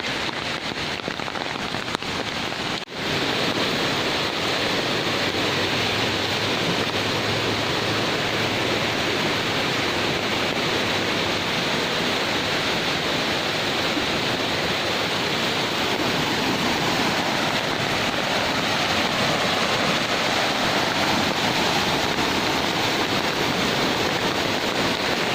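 Heavy rain falling in a steady, even hiss, with a brief break about three seconds in.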